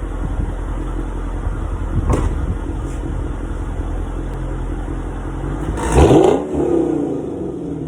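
Mercedes E500 V8 idling through an exhaust with CLS63 mufflers and an X-pipe, no resonator and no secondary cats. There is a short blip about two seconds in, then a sharp rev about six seconds in that falls back toward idle.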